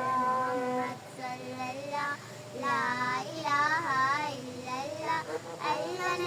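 Young girls singing a Naat, a devotional song in praise of the Prophet Muhammad, in phrases with a wavering, ornamented melody and short breaks between them.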